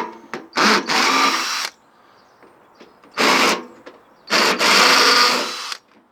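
Power drill used as a screwdriver, whirring in four short bursts as it backs screws out of a microwave casing.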